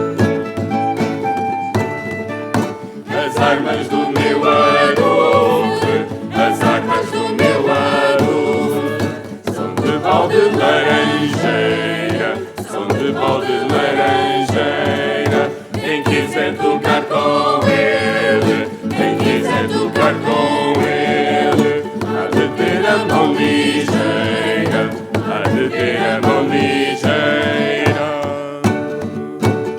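Vocal ensemble singing a song in several voices over plucked-string accompaniment. The singing comes in about three seconds in, after the instruments alone.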